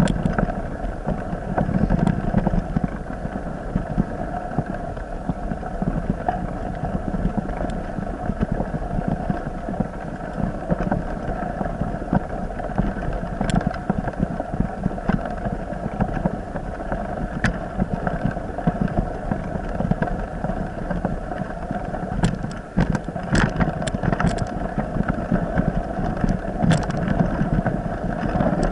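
A boat's engine running steadily under way, with the rush of water and wind around it. A few brief sharp knocks come near the end.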